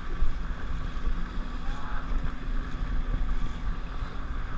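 Jet ski engine running, with wind buffeting the microphone.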